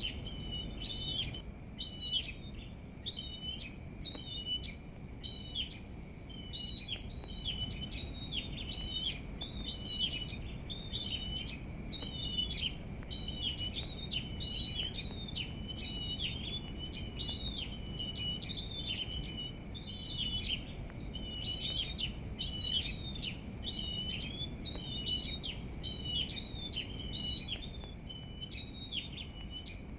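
Small songbirds chirping and twittering in quick, short notes without a break, over a low steady rumble of background noise.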